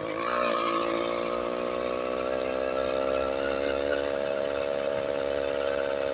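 Small motorized-bicycle engine running under way, its pitch climbing back up in the first half-second, then holding steady.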